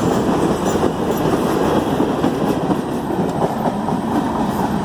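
Norfolk Southern freight train's hopper cars rolling past close by: a steady rumble and clatter of steel wheels on the rails.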